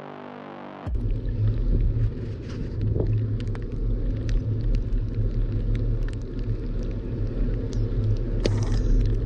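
Background music ends about a second in. It gives way to a steady rumble of wind buffeting the microphone of a bicycle-mounted action camera while riding, with scattered sharp clicks and taps.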